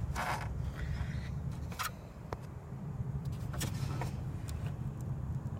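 A steady low rumble with a few brief scraping and rustling sounds, one near the start and a couple more partway through, as parts are handled around the truck's engine bay.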